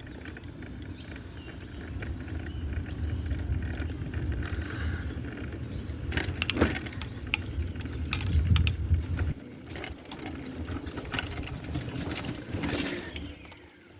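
Low rumble of a vehicle moving slowly, which cuts off suddenly about nine seconds in, with scattered clicks and knocks throughout.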